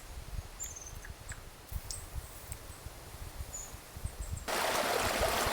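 Quiet outdoor ambience with faint low rumbling and a few short, high chirps, likely small birds. About four and a half seconds in, the steady rush of flowing stream water starts abruptly.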